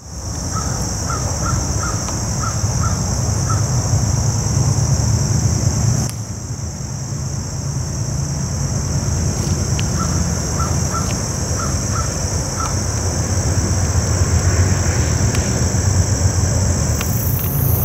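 Outdoor ambience: a steady high insect drone over a low rumble, with a bird calling in a quick run of short repeated notes near the start and again about ten seconds in.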